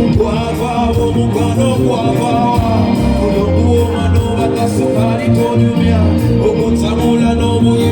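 Live band music through a stage PA during a sound check, with a steady beat and a heavy bass line, and a singing voice in places.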